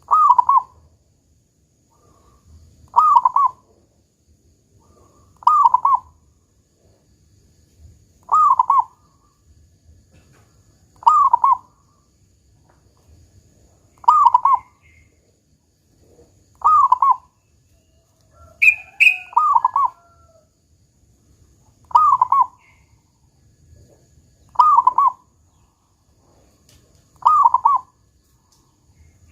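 Zebra dove (perkutut) cooing its song, one short phrase ending in a deep 'kung' note, repeated at an even pace about every three seconds. Once, around the middle, a higher-pitched call sounds alongside it.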